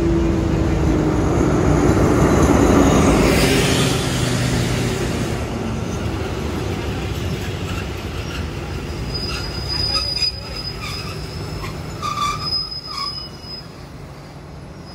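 Diesel-hauled passenger train, an Alsthom locomotive, pulling into a station and slowing to a stop. A loud rumble of the passing train fades over the first few seconds, then high-pitched wheel and brake squeals come twice, about ten seconds in and again near the end.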